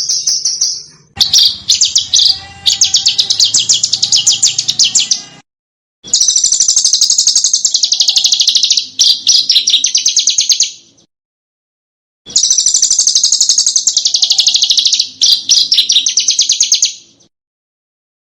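Small songbird singing fast, high-pitched chattering trills in long phrases of about four to five seconds, broken by short, completely silent gaps; the same phrase comes back almost unchanged, as in an edited, looped bird-song training track.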